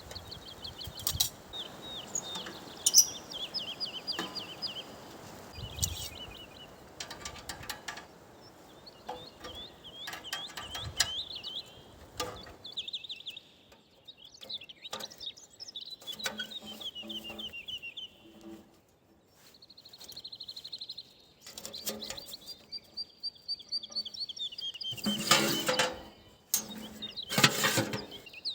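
Small birds singing in the forest, a run of short trilled and chirping phrases one after another. Intermittent sharp clicks and knocks sound over the birdsong, with two loud ones near the end.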